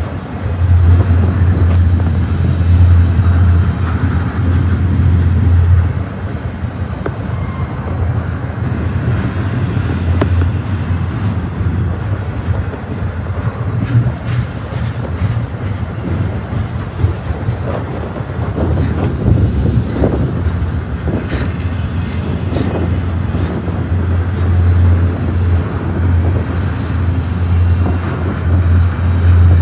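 Double-stack intermodal container train rolling past at close range: a steady rumble of steel wheels on rail, with scattered clanks from the cars between about 14 and 22 seconds in.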